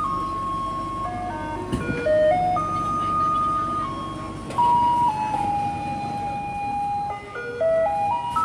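Garbage truck's loudspeaker playing its electronic jingle, a plain single-voice melody stepping from note to note, which signals residents to bring out their rubbish. A low rumble runs underneath.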